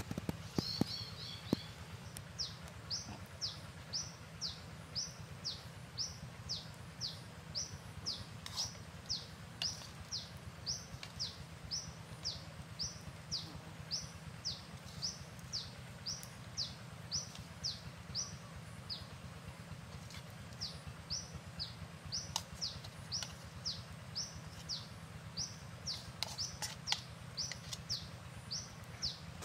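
A bird calling a short, high, falling note over and over, a little under two times a second, with a brief quick twitter about a second in. Faint clicks and scrapes of a spoon working coconut flesh in a coconut-shell bowl come now and then.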